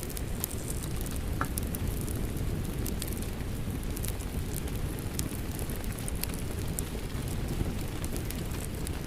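Wood fire crackling in a fireplace, with many scattered sharp pops and clicks, over the steady noise of falling rain.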